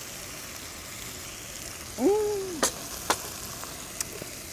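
Meat sizzling in a pan on a camp stove, a steady hiss, with a short wordless vocal sound about two seconds in and three sharp clicks of utensils or cups after it.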